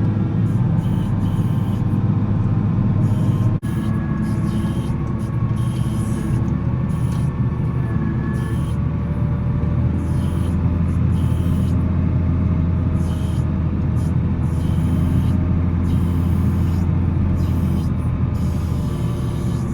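Volvo L70C wheel loader's diesel engine running steadily while plowing snow, with a brief sharp break in the sound about four seconds in, after which the low engine note shifts.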